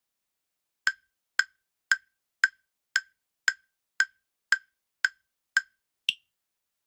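Quiz countdown timer sound effect: ten short ticks about two a second, then one higher-pitched tick that ends the count.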